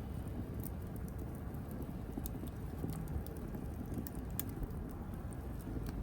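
Wood fire burning in a fireplace: a steady low rumble of flames with scattered sharp crackles and pops, the sharpest about two and four and a half seconds in.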